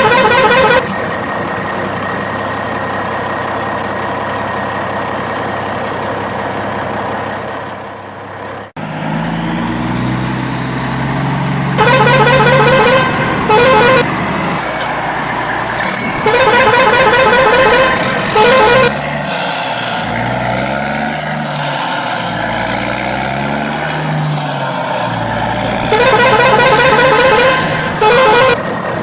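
Vehicle horn honking in loud bursts of about a second, three times a long honk followed by a short one, over a steady vehicle engine sound. A sudden cut just before nine seconds in changes the engine sound to a lower, wavering one.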